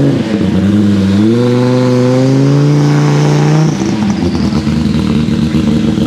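1992 Audi S4 IMSA GTO's 2.2-litre turbocharged five-cylinder engine accelerating hard. The revs climb, dip briefly at a gear change just after the start, then climb again in one long pull. About three and a half seconds in the note cuts off sharply, leaving a lower, steadier engine rumble.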